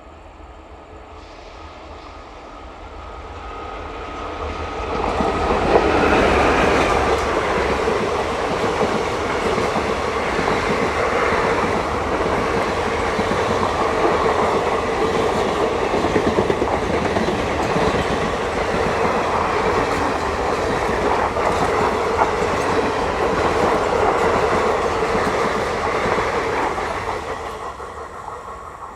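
Indian Railways express train passing at speed. Its coaches' wheels clatter over the rail joints, rising quickly as it nears, holding loud and steady for about twenty seconds as the rake goes by, and fading near the end.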